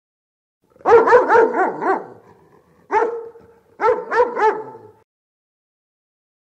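A dog barking: a quick run of about five barks, a single bark, then three more, stopping about five seconds in.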